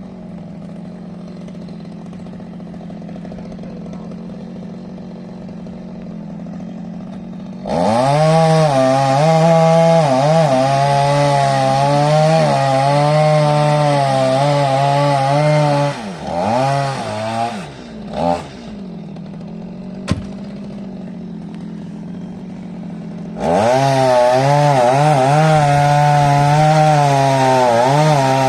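Chainsaw idling, then opened up to full throttle and cutting wood for about eight seconds, its pitch wavering under load. It drops back to idle with a couple of short blips of the throttle, then goes back to full-throttle cutting near the end.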